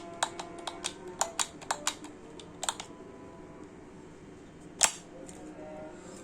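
Sharp clicks and taps in quick succession, about a dozen over the first three seconds, then one louder single click near five seconds in.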